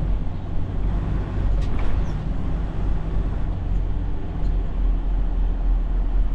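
Semi-truck diesel engine running steadily, a low drone heard from inside the cab.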